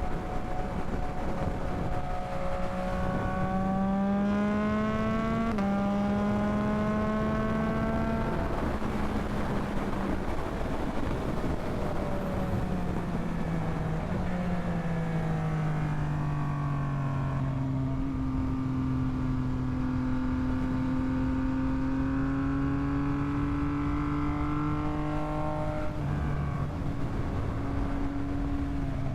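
Yamaha MT-09's three-cylinder engine under way: it rises in pitch as the bike accelerates through the first several seconds, with a break about five seconds in, then eases off and settles into a steady cruising note, with wind noise over the microphone.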